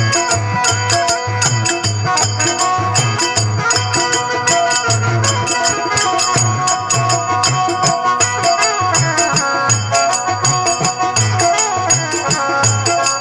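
Instrumental passage of Rajasthani folk devotional music: a drum keeps a steady beat under jingling hand percussion, with a melody instrument playing held and gliding notes over it.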